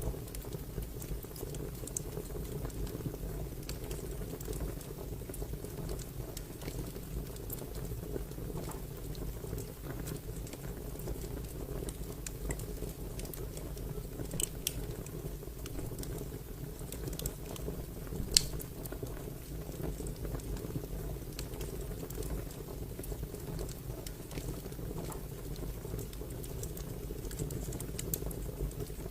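Fire crackling: a steady low rumble of flames under scattered sharp pops, one pop standing out louder about eighteen seconds in.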